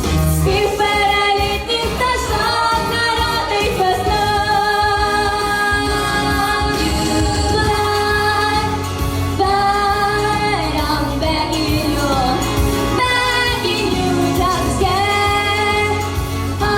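A female voice singing with instrumental accompaniment, holding long sustained notes that waver with vibrato, phrase after phrase.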